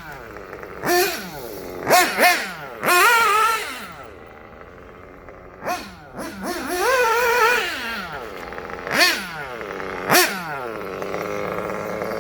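1/8-scale nitro buggy engine with a tuned exhaust pipe being revved in repeated throttle blips, its pitch sweeping up and down with each one. It settles into a steady idle near the end.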